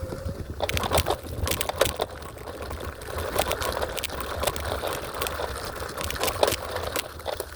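Electric scooter riding over rough, rocky ground: a dense, irregular clatter of rattles and knocks from the wheels and deck over a steady low rumble.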